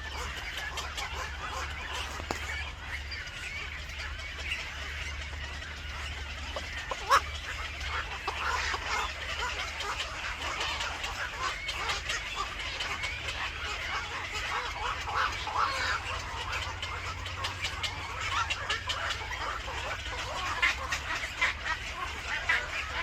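Birds calling in many short chirps and clucks, over a steady low hum, with one sharp click about seven seconds in.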